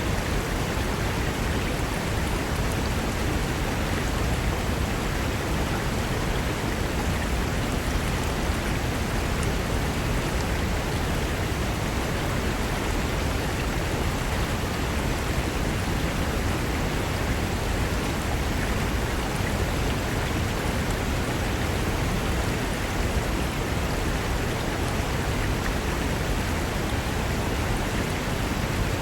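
Mountain river rushing over rocks: a steady, dense roar of running water with no breaks.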